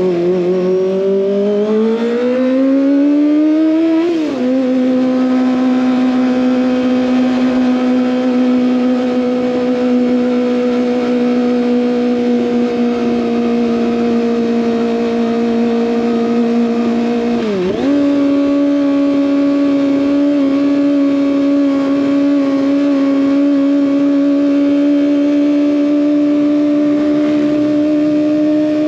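Kawasaki ZX25R's inline-four engine through an SC Project exhaust, riding: it revs up for about four seconds, drops in pitch on a gear change, then holds a steady cruising note. About two-thirds through it briefly dips, then settles at a slightly higher steady pitch.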